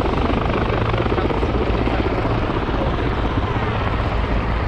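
Military helicopter flying at an air show, a steady, loud rotor and turbine noise.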